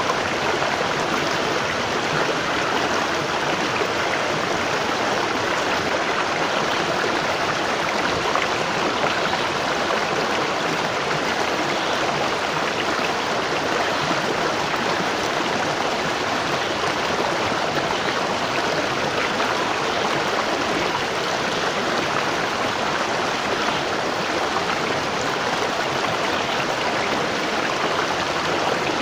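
Waterfall: water falling and rushing in a steady, even roar with no change.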